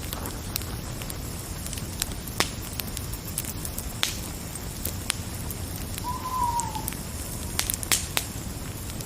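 Fire crackling: scattered sharp pops and snaps over a steady hiss. About two-thirds of the way through comes one short call that falls slightly in pitch.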